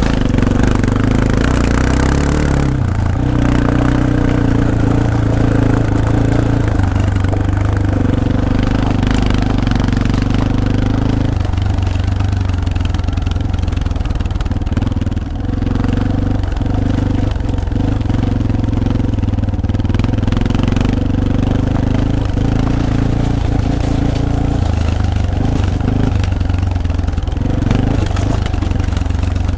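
Yamaha Serow 250 (XT250) air-cooled single-cylinder four-stroke engine running at low road speed. Its pitch steps up and down a few times as the throttle changes: about three seconds in, about eleven seconds in, and again near the end.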